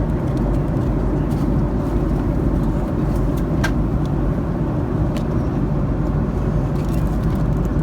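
Steady low drone inside the passenger cabin of an Airbus A310-304 in cruise: its General Electric CF6-80C2 engines and the airflow over the fuselage, with two faint clicks in the middle.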